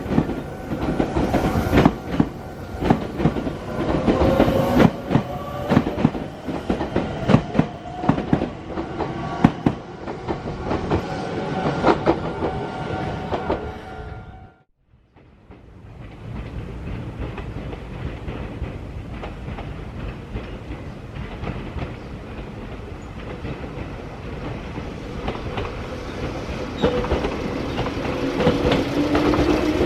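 Meitetsu electric trains on the junction tracks: rapid wheel clacks over rail joints and points, with a motor whine rising in pitch. The sound drops out briefly about halfway. Another train then builds slowly, its whine rising near the end.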